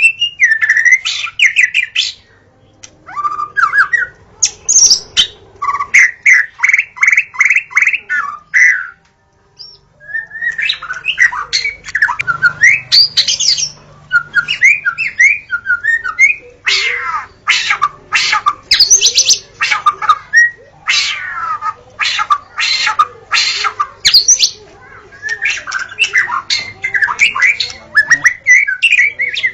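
White-rumped shama (murai batu) singing: loud, varied phrases of sweeping whistles and fast runs of repeated notes, separated by short pauses.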